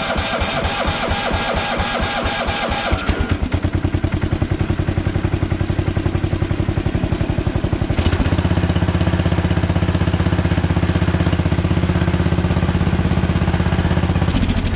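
Bolens 1220 garden tractor engine cold-started: the starter cranks for about three seconds, then the engine catches and runs with an even rhythm, settling into steady running about eight seconds in.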